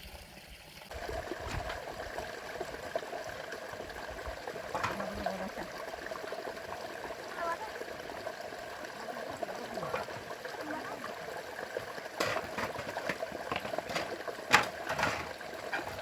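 Running rainwater trickling and splashing steadily, with several sharp clicks and knocks in the last few seconds.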